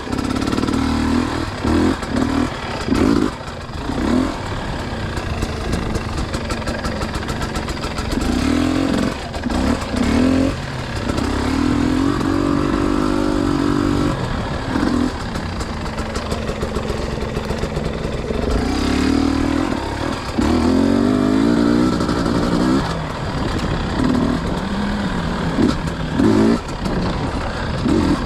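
Dirt bike engine running while being ridden, its pitch rising and falling repeatedly with throttle changes.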